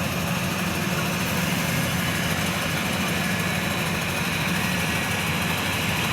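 Rice combine harvester's engine running steadily at a constant speed, a loud even hum.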